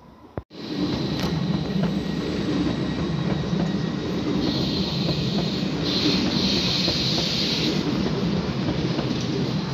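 A train moving along the tracks at a railway station platform, with a steady rumble of wheels on rail. A high-pitched sound joins for about three seconds midway. The sound cuts in abruptly after a brief click about half a second in.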